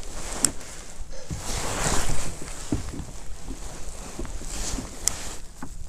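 Wind blowing across the microphone, with small slaps of water against a kayak hull. The wind swells into a stronger gust about two seconds in.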